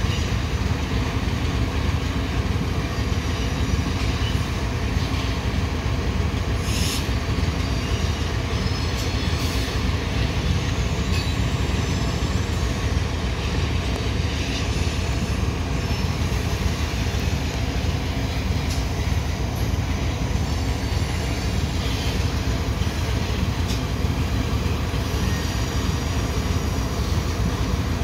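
Steady low rumble of a diesel locomotive and loaded coal hopper cars rolling slowly through a rail yard. Faint high wheel squeal comes and goes now and then.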